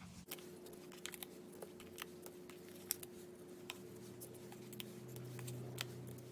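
Faint, scattered clicks and light crackles of foam dimensionals being peeled from their backing sheet and pressed onto cardstock pieces, over a steady low hum.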